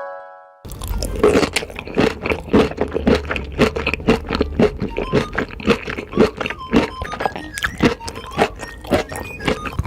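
Close-miked mukbang eating: a dense run of irregular crunches, bites and wet mouth clicks starts about half a second in. It follows the fading end of a short keyboard jingle.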